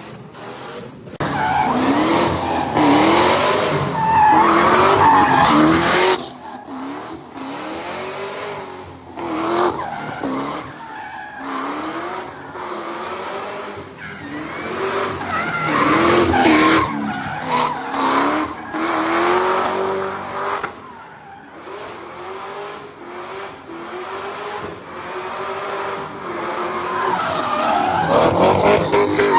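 A drifting car's engine revving up and down over and over, its pitch rising and falling, with tyres squealing and skidding across the pavement.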